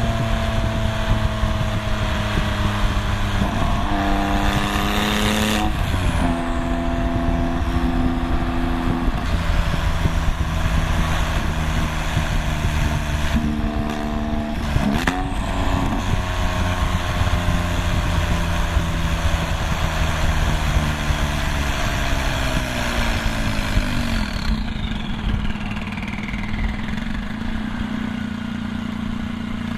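Straight-piped twin-turbo flat-six of a 2001 Porsche 996 911 Turbo revved sharply twice, each time with a high turbo whistle that sweeps up and then falls away. It then holds raised revs and slowly drops back to a steady idle.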